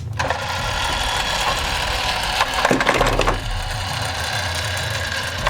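A load of toy building blocks tipping out of a toy dump truck bed, sliding and clattering onto each other in a dense, continuous rattle.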